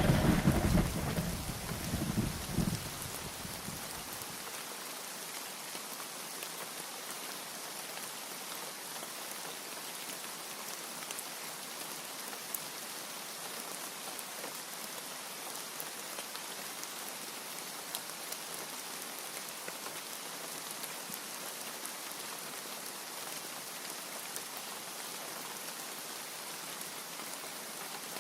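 A thunder rumble fades out over the first few seconds, with a last swell about two seconds in. Then comes steady rain: an even hiss with scattered drop ticks.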